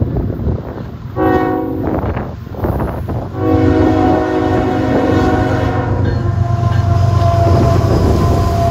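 Freight locomotive horn sounding a short blast about a second in, then a longer blast, a crossing warning as the train nears the grade crossing. Then the deep, steady rumble of the two lead diesel locomotives passing close by.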